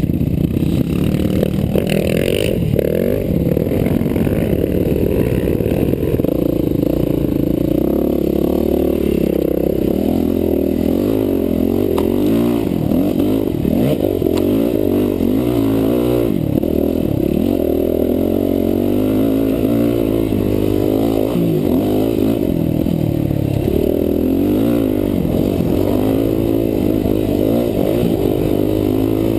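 Dirt bike engine running under load as the bike is ridden, its pitch rising and falling again and again as the throttle is opened and closed.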